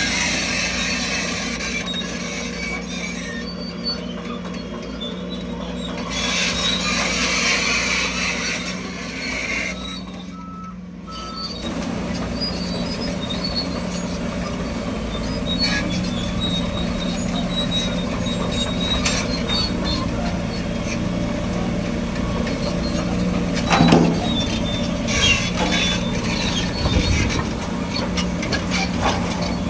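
Diesel engines of a bulldozer and dump trucks running steadily as they move fill dirt. A brief beep sounds near the middle, and a sharp clank comes later.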